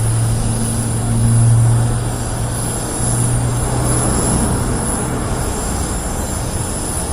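Airbus A400M's four Europrop TP400 turboprops and propellers running in flight: a loud, steady aircraft noise with a low hum that swells about a second and a half in and fades out after about five seconds.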